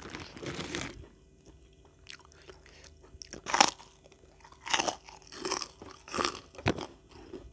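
Close-miked chewing of crunchy food: a soft stretch of chewing at first, then sharp crunches from about halfway, roughly one a second.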